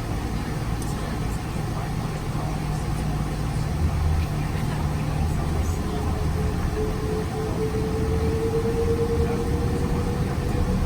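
Steady low engine rumble heard from inside a vehicle, with a thin whine that slowly rises in pitch over the second half.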